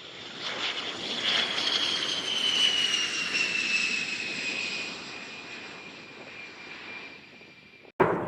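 Jet noise from an A-10 Warthog's twin turbofan engines as the aircraft passes: a rushing sound with a high whine that falls steadily in pitch, swelling and then fading away. Near the end it cuts off abruptly to a sharp bang.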